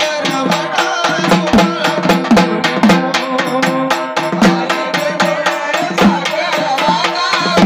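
Marathi folk cradle-song (pāḷṇā) music with a fast, steady beat of drum and sharp clicking percussion over a sustained melodic accompaniment.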